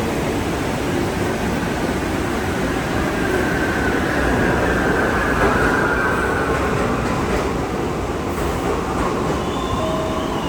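NYC Subway R62A train running on the rails with a steady rumble, and a faint high wheel squeal that rises in the middle and falls slightly in pitch before fading.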